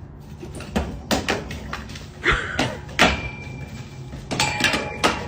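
A series of knocks and bumps, several sharp ones in the middle seconds, over a low steady hum.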